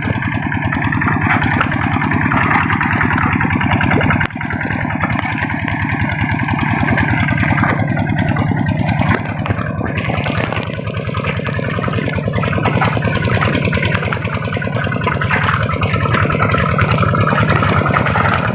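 A paddy-field hand tractor's single-cylinder diesel engine runs steadily under working load while leveling a flooded rice paddy. About halfway through, a brighter hiss joins the engine.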